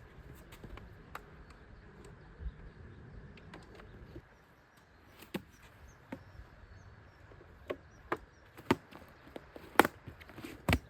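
Irregular sharp clicks and knocks, coming more often and louder in the second half, over a low rumble that drops away about four seconds in.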